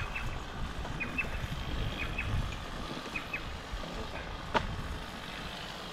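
A bird calling over and over, a pair of short high chirps about once a second, over a low rumble. A single sharp click sounds about four and a half seconds in.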